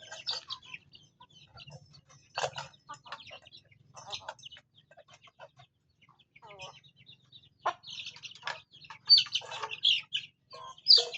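Farm chickens clucking, with high chirping calls, likely from young chicks, mixed in. The calls are short and irregular and grow louder and busier in the last few seconds.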